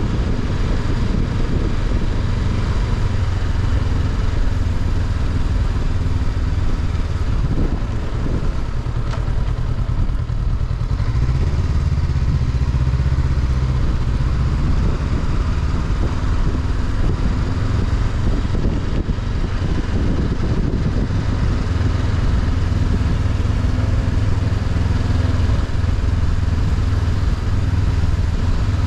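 Honda CB500X's parallel-twin engine running continuously, heard onboard the moving motorcycle, its low note swelling for a few seconds about midway.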